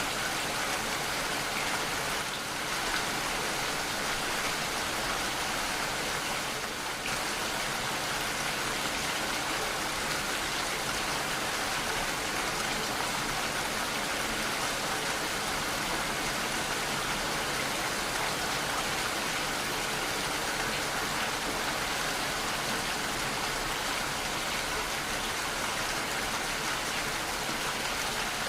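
Steady heavy rainfall, an even hiss of rain falling on surfaces without pause.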